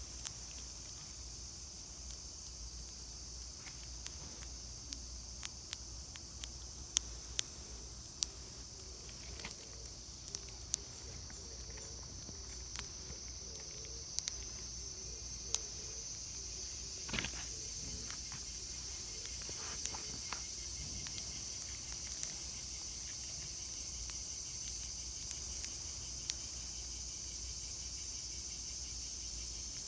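Steady high-pitched insect chorus with many scattered sharp clicks, and a short louder rustle a little past halfway; the chorus grows slightly louder in the second half.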